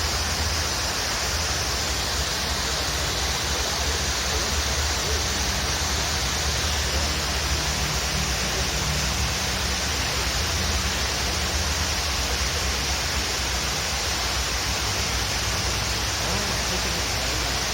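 Waterfall: water falling and rushing in a steady, unbroken noise with a deep low rumble.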